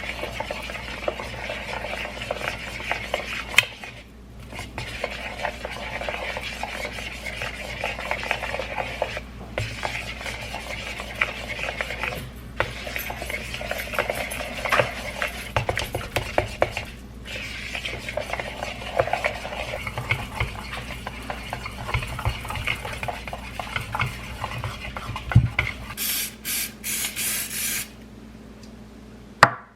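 Kitchen work: dishes and cutlery clinking and scraping against one another over a steady hiss, broken by a few brief pauses, with a louder hissing stretch near the end.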